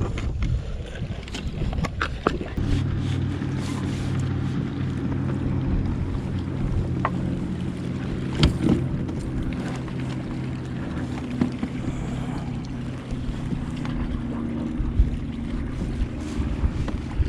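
A boat motor hums steadily from a couple of seconds in, with a few knocks and clicks on the kayak's hull.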